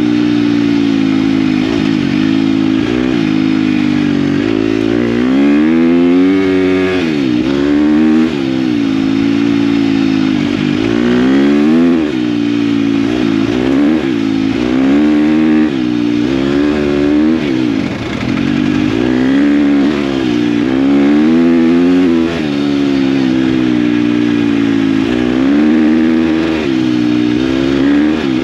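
KTM dirt bike engine running under way, its revs rising and falling over and over as the throttle opens and closes.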